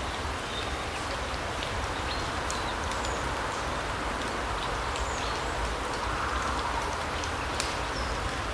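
Autumn larch-forest ambience: a steady rush of background noise with a low rumble beneath. Short, high chirps of small birds are scattered throughout.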